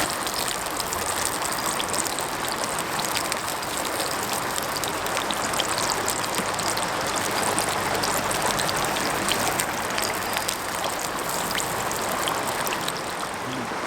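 Mountain stream running steadily, a constant rushing wash, with many small scattered ticks on top of it.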